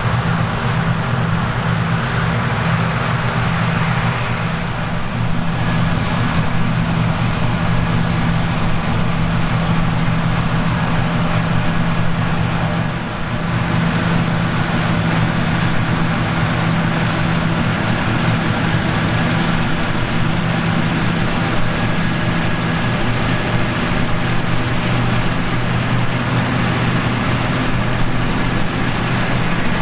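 Claas Lexion 780 TT combine harvester running steadily at work: a deep, even engine drone with a dense rushing noise over it, dipping briefly partway through.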